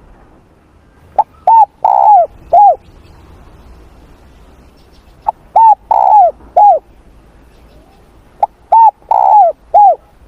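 Spotted dove (cu gáy) cooing: three loud phrases about three and a half seconds apart. Each phrase is a faint short note followed by three coos, the middle coo longer and rolling.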